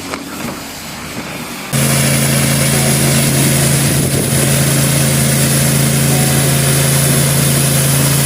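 A machine running steadily with a loud, even hum and hiss, starting abruptly about two seconds in after quieter sound.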